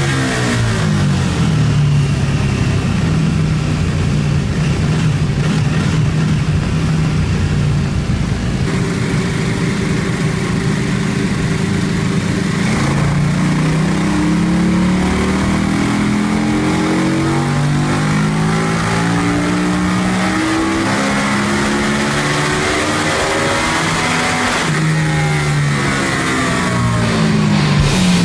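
KTM Super Duke's V-twin engine on a dyno run: it winds down, runs steadily, then climbs in pitch in a series of stepped rising pulls from about halfway through, and winds back down near the end.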